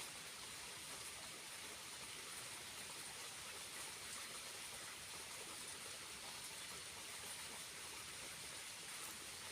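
Faint, steady rush of water falling and running in a small waterfall.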